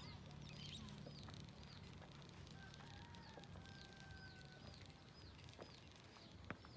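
Faint outdoor quiet with a bird repeating short high chirps over and over, about two a second.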